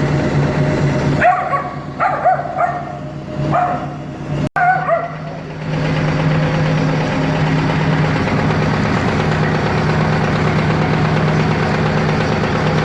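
AVZ-180 rotary-plunger vacuum pump running with a steady hum. Between about one and five seconds in, several short high yelps sound over it. The pump is still wet inside, its oil not yet degassed.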